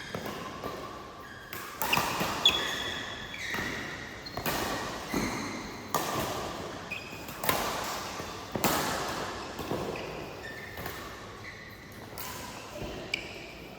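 A badminton rally: about a dozen racket strikes on the shuttlecock, roughly one a second, each echoing in the hall, with short squeaks of court shoes on the floor between shots.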